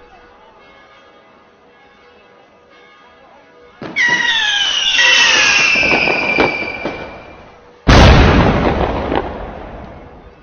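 Firework sound effect: a loud whistle falling in pitch for about three and a half seconds, then a sharp bang that dies away over about two seconds. Quiet background music before it.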